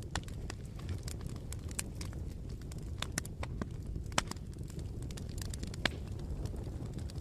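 Bonfire crackling: irregular sharp pops and snaps of burning wood over a low steady rumble, the two loudest pops in the second half.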